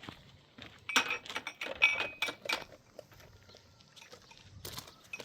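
Hard household objects clinking and knocking, a quick run of strikes with short metallic rings about a second in, then one more knock near the end.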